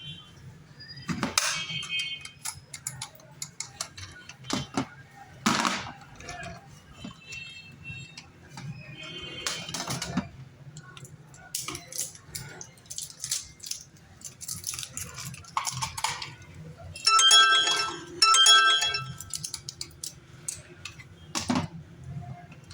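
Clicks and clatter of a small plastic toy being handled, with two short electronic tone bursts, one after the other, near the end.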